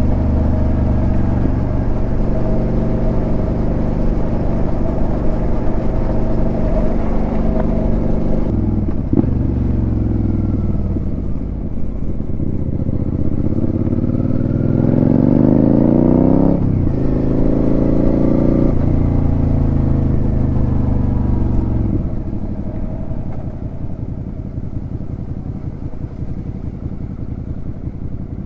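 Suzuki SV650's 645 cc V-twin through a Delkevic aftermarket exhaust, heard while riding. It cruises steadily, then the note climbs as the bike accelerates and drops sharply at a gear change. After running steadily again it falls lower and quieter as the throttle comes off near the end.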